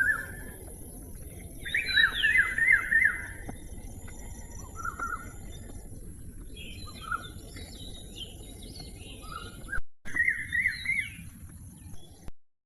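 Parrot calling in bursts of short chirps and rapid warbling trills, the loudest burst about two seconds in and another about ten seconds in, over a steady background hiss.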